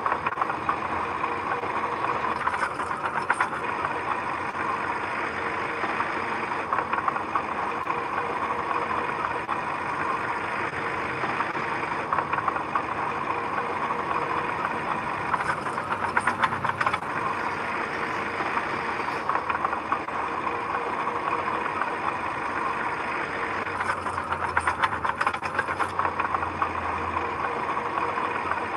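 Heavy construction machine's engine running steadily, with three short spells of metallic clatter, near the start, about midway and near the end.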